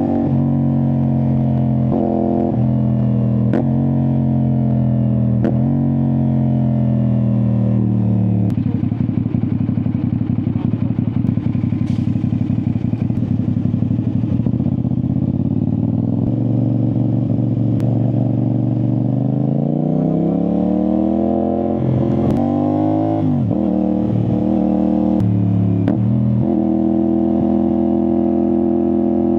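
CFMoto 450SR-S parallel-twin engine through an Austin Racing aftermarket exhaust, ridden at speed. The revs drop through several quick gear changes, run rougher and lower for several seconds, climb in a long pull about twenty seconds in, then jump and dip a few times before settling into steady cruising near the end.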